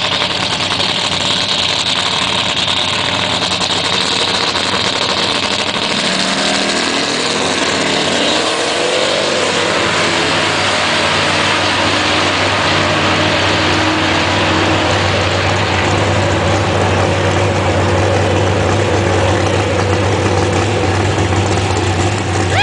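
Race truck engine running continuously, its pitch rising about six to ten seconds in and then holding in a steady low drone.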